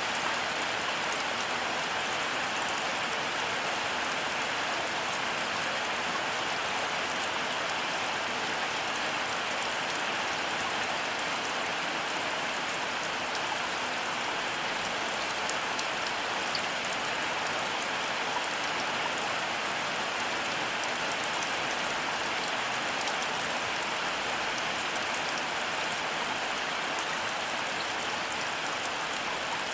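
Steady heavy rain falling, an even hiss of many drops with no break or rise in strength.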